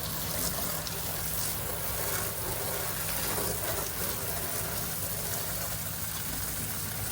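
Pressure washer engine and pump running steadily at a low hum, under the even hiss of water spraying from the wand in a low-pressure rinse.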